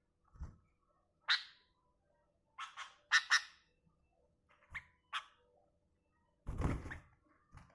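Sooty-headed bulbul giving short, sharp chirps, about six of them spread over a few seconds. A soft thump comes about half a second in, and a louder thump near the end.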